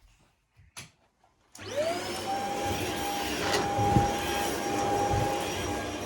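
Shark HZ500UK corded stick vacuum cleaner switched on about one and a half seconds in: its motor whine rises quickly to a steady pitch, then it runs steadily with a few knocks as it is pushed around.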